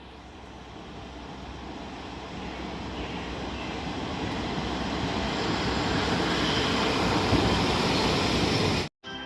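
A train approaching, its running noise growing steadily louder without a break.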